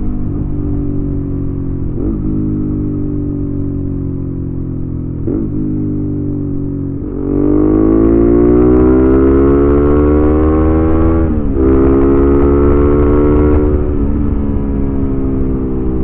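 Suzuki V-Strom 650's V-twin engine running through a Delkevic aftermarket exhaust while being ridden. Its pitch sags slowly, with short breaks about two and five seconds in. About seven seconds in it gets louder and rises under acceleration, breaks briefly near the middle of that pull as if for a gear change, and eases off a couple of seconds before the end.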